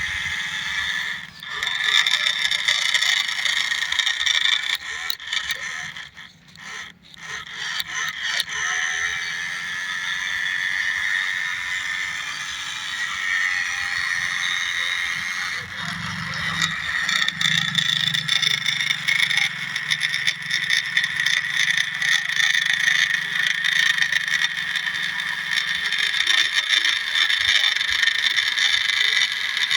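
Remote-control New Holland toy tractor driving over soil, its small electric motor and gearbox giving a steady high whine with scraping and rattling. The whine cuts out briefly about a second and a half in and again around six to seven seconds.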